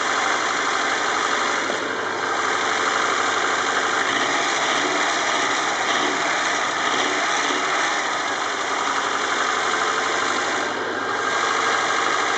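Nissan DOHC 16-valve four-cylinder engine idling steadily, heard with the bonnet open.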